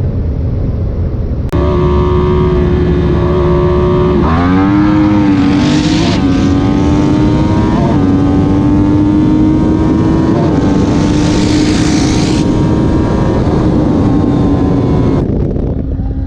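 Race engine at full throttle during a street race. The note jumps up about a second and a half in, climbs sharply around four seconds in, then holds high and steady with a few brief hitches before it falls away near the end.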